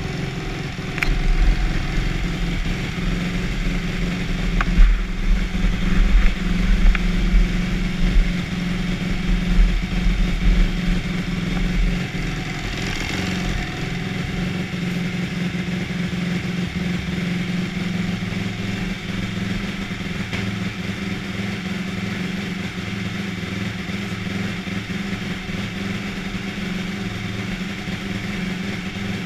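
Yamaha motocross bike engine running, uneven with a heavy low rumble and louder surges for about the first twelve seconds, then settling into a steady idle.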